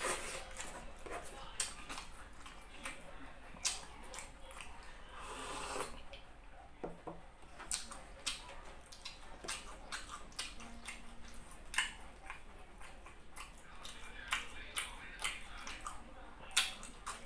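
Close-miked eating: wet chewing and lip smacking with irregular sharp clicks as rice and pork are eaten by hand. A louder crisp bite comes near the end as a slice of cucumber is bitten.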